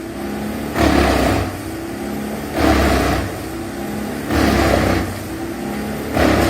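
Wood chipper running under load: a steady engine hum with a louder surge about every two seconds as wood is fed into it.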